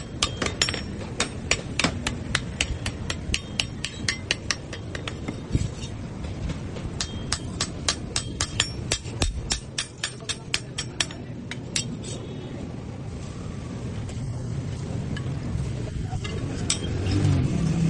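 Blacksmith's hand hammer striking metal on an anvil in quick, even blows, about three or four a second. The blows pause briefly about six seconds in, resume, and thin out to scattered strikes after about eleven seconds.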